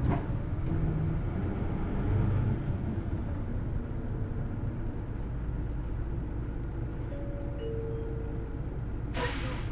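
Hino Blue Ribbon City Hybrid city bus heard from inside while running, its engine and drive louder for the first couple of seconds and then steady. A short hiss comes near the end.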